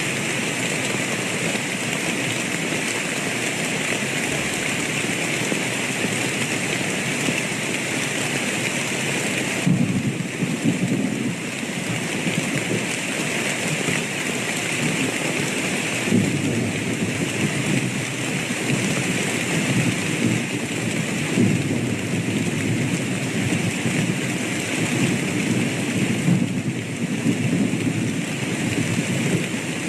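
Steady heavy rain with rolling thunder. Partway through, low rumbles of thunder begin to swell and fade repeatedly over the rain.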